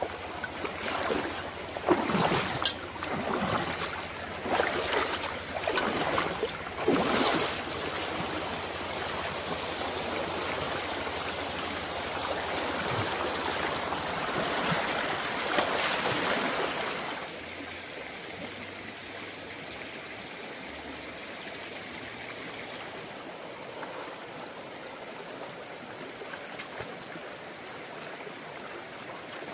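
Running water of a stream, with a series of loud splashes over the first several seconds. It settles into a steady rush, then drops to a quieter, even flow about two-thirds of the way through.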